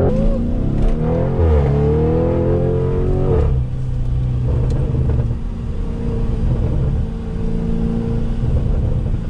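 Car engine revving, its pitch rising and falling for about the first three seconds, then settling into a steady drone, heard from inside a car's cabin.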